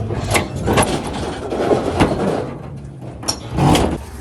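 A series of sharp knocks and clanks with rough scraping between them, as a pickup truck is dragged up onto a car trailer. A vehicle engine runs underneath.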